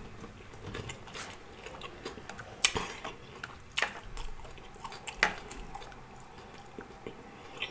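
Quiet close-miked chewing of food with the mouth closed, broken by a few sharp clicks, three of them plain.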